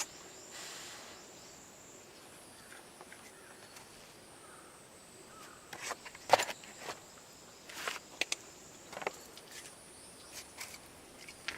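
Scattered sharp clicks and knocks of hand tools and metal parts being handled during repair work on a kei truck, the loudest about six seconds in, over the steady high chirring of insects.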